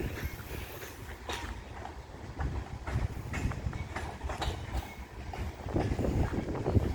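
CN freight train's cars rolling past: a steady low rumble with irregular sharp clacks of wheels over rail joints.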